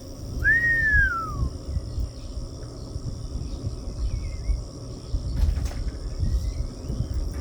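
Outdoor ambience: a steady high insect trill, with one bird whistle that rises and then slides down about half a second in and a couple of faint chirps later. An uneven low rumble underlies it all.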